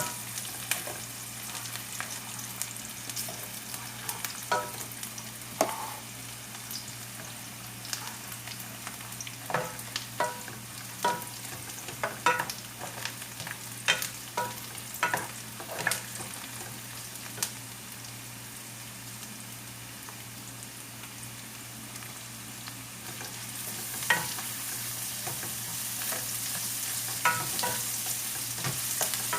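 Food sizzling in oil in a cooking pan while being stirred. A utensil repeatedly knocks and scrapes against the pan with short ringing clinks. The sizzle gets louder about three-quarters of the way through.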